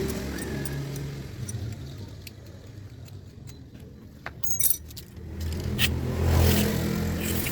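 An engine running with a low hum that swells louder about six seconds in, with a few sharp metallic clinks, like tools or parts, about four and a half seconds in.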